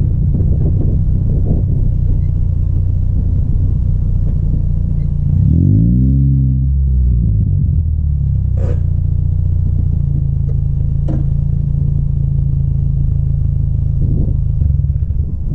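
2006 Scion xB's 1.5-litre four-cylinder idling through a DME bolt-on aftermarket muffler, with a deep exhaust note. About five seconds in it is revved once, the pitch rising and falling back, and then it settles to a steady idle.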